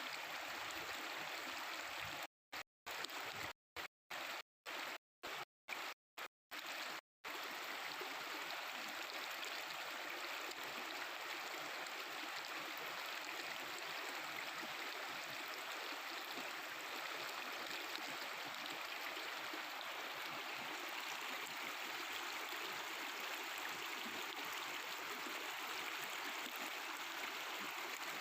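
Mountain river flowing, a steady babbling rush of water. The sound drops out to silence for short moments several times in the first seven seconds.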